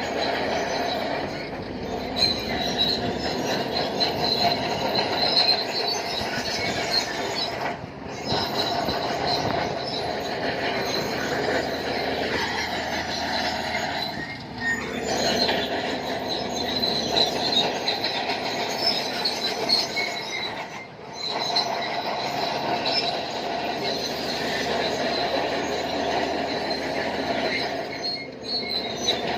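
Crawler bulldozer working, its steel tracks squealing and clanking over a steady engine noise. The noise dips briefly about every six or seven seconds.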